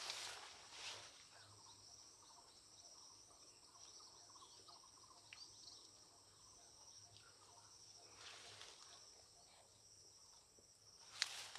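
Faint, steady high-pitched insect chorus, with a few soft rustles.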